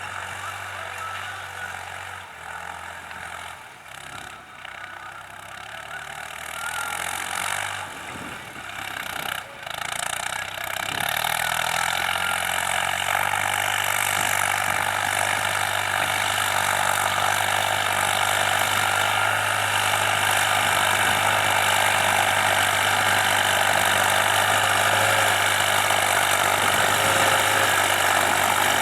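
New Holland TT55 tractor's diesel engine running under load while levelling a flooded paddy field. It is uneven and a little quieter for the first third, then grows louder and holds steady.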